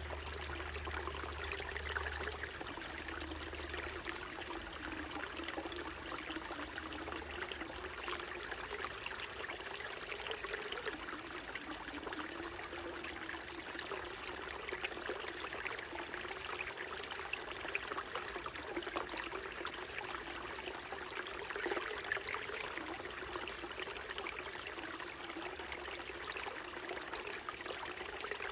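Small mountain stream babbling and trickling steadily, an even rush of running water with fine splashy flickers.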